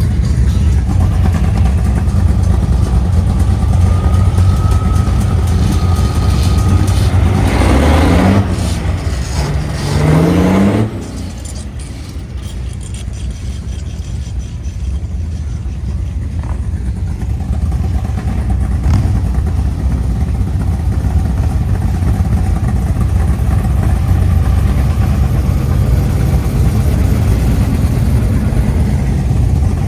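Car engines running as cars roll out, with one engine's pitch dipping and then climbing hard about eight to eleven seconds in before it drops away.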